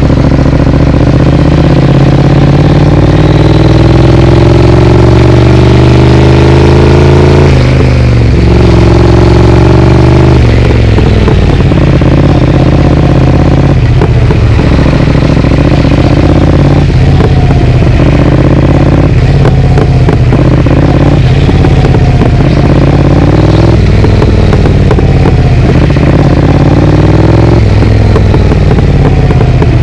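Triumph Speed Twin parallel-twin engine breathing through an aftermarket Vance & Hines exhaust while riding: the note rises steadily for the first eight seconds as it pulls through a gear, then breaks at a shift, and for the rest of the time rises and drops again and again with short breaks as the rider shifts and rolls the throttle on and off.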